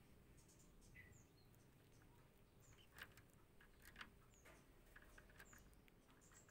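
Near silence with faint, brief high-pitched bird chirps, each a short falling note, heard several times, along with a few soft clicks.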